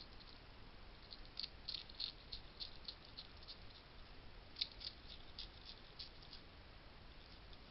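Hedgehog crunching dry food at a feeding station: a faint, irregular run of small crisp clicks, busiest about a second and a half in and again from about four and a half seconds, where the loudest click falls.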